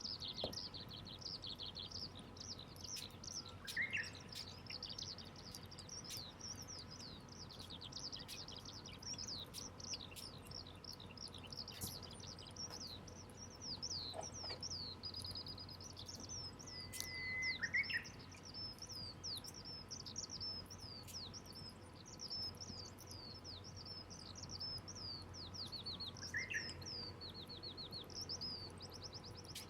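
Birds twittering continuously in a busy stream of short high chirps, with a lower call standing out three times.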